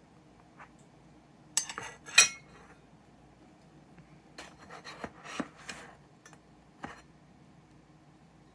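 Hard clinks and clacks from machined metal airsoft gearbox parts being handled and set down on a hard surface: a loud cluster about one and a half seconds in, a second run of lighter clicks a few seconds later, and one last click near the end.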